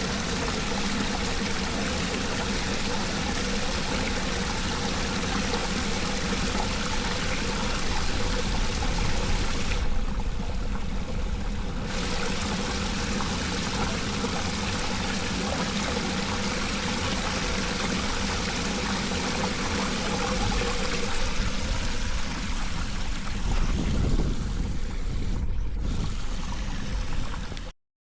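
Floodwater pouring steadily into a cleared storm drain, a continuous rush of running water that breaks off abruptly for a moment near the end.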